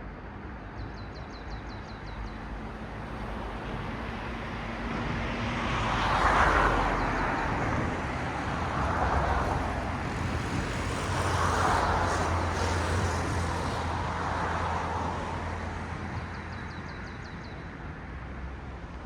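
Cars passing one after another on a road, their tyre noise swelling and fading about four times, loudest about six seconds in, over a steady low traffic hum.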